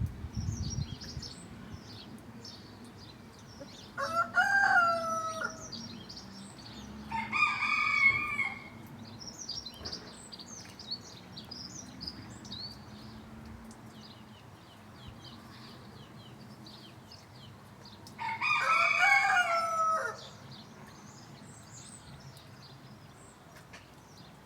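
Roosters crowing three times, about four seconds in, about seven seconds in and again near the end, over the steady chirping of small songbirds.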